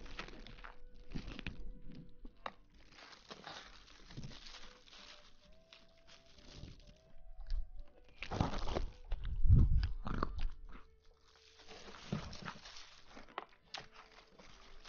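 Close-miked ASMR crunching and rustling in irregular bursts, with the loudest burst about two-thirds of the way through.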